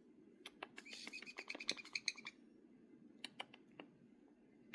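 Pet parrot making a quick run of sharp clicks and short chirps, then a few scattered clicks.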